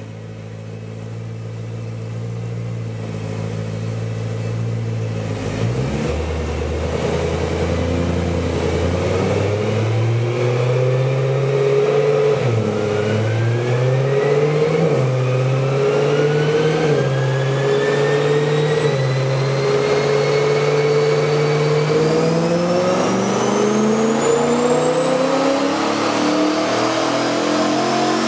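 BMW M3 E92's 4.0-litre V8 with a KKS exhaust on a Dynojet chassis dyno: a steady engine note growing louder over the first few seconds, then revs climbing steadily through a long power run, with a thin high whine rising along with them.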